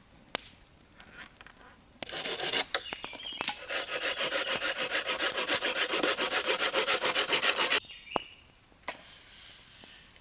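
Hand saw cutting through wood in fast, even strokes that start about two seconds in and stop abruptly near the eight-second mark.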